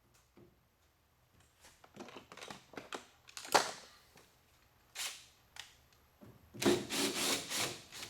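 Scattered clicks, knocks and rubbing of hand work with tools and parts, with a sharper knock about three and a half seconds in and a short run of clattering near the end.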